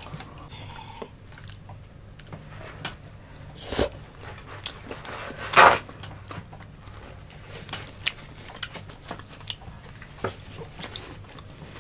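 Close-miked eating sounds: chewing and small wet mouth clicks as people eat with their hands, with two louder short noisy sounds about four and five and a half seconds in.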